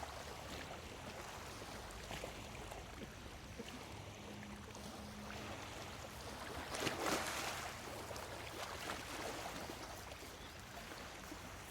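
Small lake waves lapping against the shore, an even wash with one larger wave breaking about seven seconds in.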